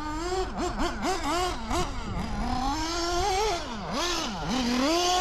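O.S. Speed AD3 nitro engine in an RC car, revving up and down as it is driven, its pitch rising and dropping about once a second with a longer climb in the middle. The engine is still being broken in and runs a little rich.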